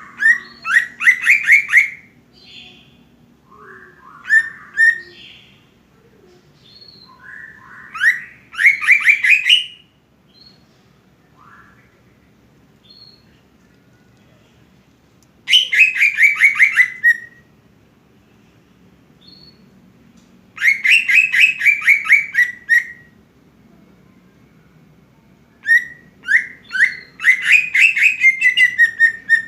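Cucak ijo (green leafbird) song: about six loud phrases of rapid, evenly repeated ringing notes, each lasting one to two seconds, with faint short calls in the gaps.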